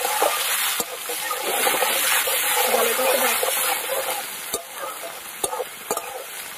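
Sliced onions and chopped tomatoes sizzling in hot mustard oil in a metal kadai while a metal spatula stirs them, scraping and knocking against the pan a few times.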